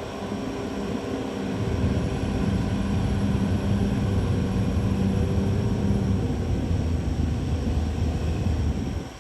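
CAT D6R XL bulldozer's diesel engine running hard, getting louder about a second and a half in and then holding a steady low drone.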